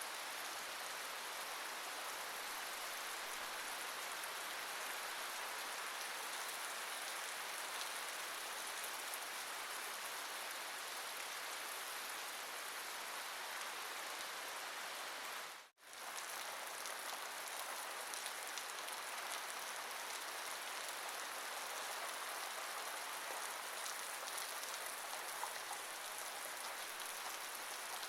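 Steady rain falling, an even, constant patter. It drops out for a split second about halfway through, then carries on unchanged.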